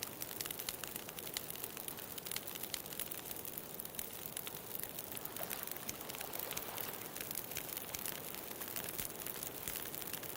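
Bonfire crackling, with dense irregular pops and snaps over a steady wash of ocean surf.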